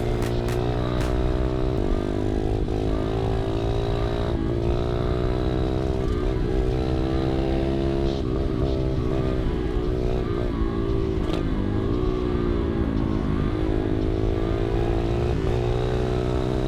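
Pit bike engine running while being ridden, its revs rising and falling, with clear drops in pitch about four seconds in and again about eleven seconds in. The carburettor has not yet been tuned, so the owner expects it not to be running at its best.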